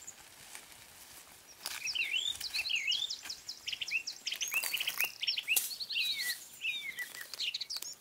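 A songbird sings a long, varied song of fast trills and quick sweeping notes, starting about two seconds in and stopping just before the end. A few sharp clicks sound behind it.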